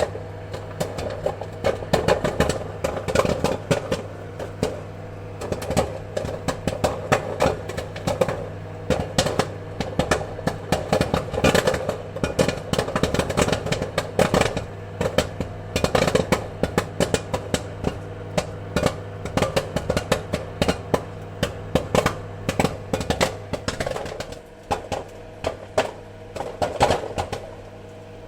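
Popcorn kernels popping in quick, irregular succession, several pops a second, over a steady low appliance hum.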